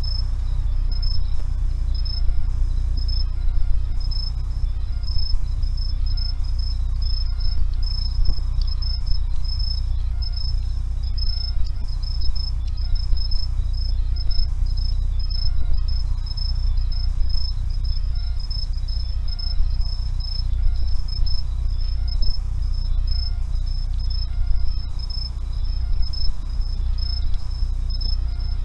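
An insect chirping in a steady, evenly pulsing high-pitched trill, over a continuous low rumble.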